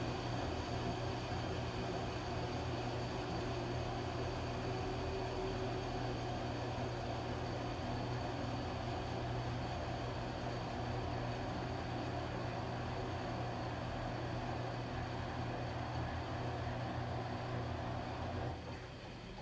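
Washing machine running: a steady low motor hum with a faint high whine, easing off a little near the end.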